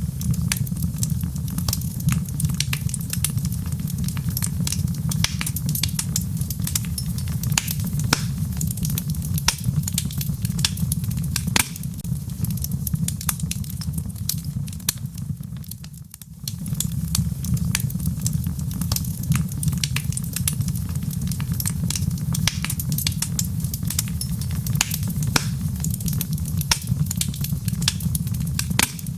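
Wood logs burning in a fireplace: a steady low rumble of the fire with many sharp crackles and pops from the burning wood. The sound drops briefly about halfway through, then resumes.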